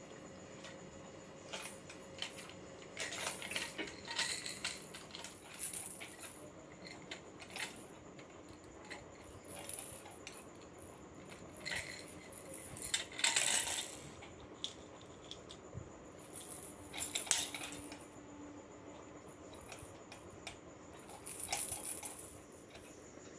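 Light clinking and rattling of small hard objects in short clusters every few seconds, the loudest about halfway through.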